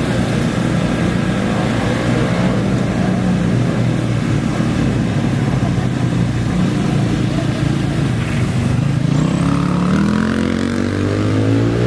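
Off-road race bike engines running at the start line, one revving up with a rising pitch over the last few seconds.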